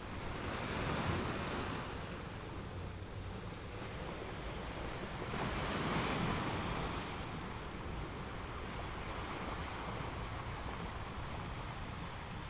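Sea surf washing in, a steady rushing hiss that swells louder twice, about a second in and again around six seconds.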